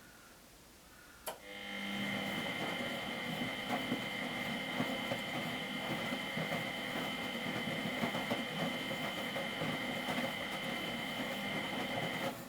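Miele Professional WS 5426 washing machine starting up with a sharp click, then running steadily for about eleven seconds with a high, even whine over a rough churning noise, and stopping near the end.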